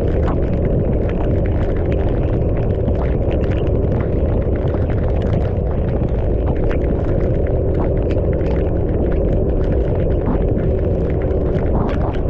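Wind buffeting the microphone of a motorcycle riding in heavy rain, a steady dense noise with the engine's hum beneath it and frequent small ticks throughout, likely raindrops striking the mic.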